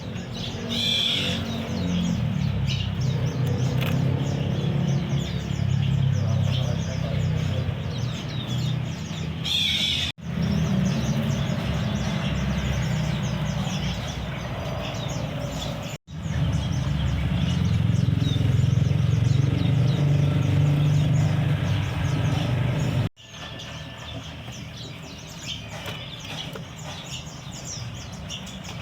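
Many small caged songbirds chirping in quick, rapid calls over a steady low motor rumble. The sound breaks off abruptly three times at edit cuts, and the rumble is weaker after the last break.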